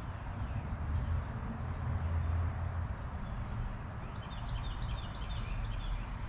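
A small bird chirping in a quick run of short high notes from about four seconds in, over a steady low rumble.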